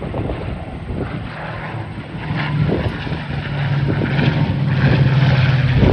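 Warbird formation of a Supermarine Spitfire Mk 18 (Rolls-Royce Griffon V-12) and a P-51D Mustang (Rolls-Royce Merlin V-12) flying past. The piston-engine drone grows steadily louder from about two seconds in as the aircraft approach.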